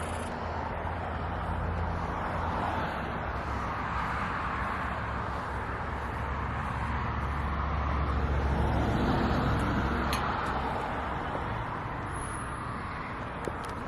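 Road traffic rumbling steadily, swelling as vehicles pass, loudest about nine seconds in.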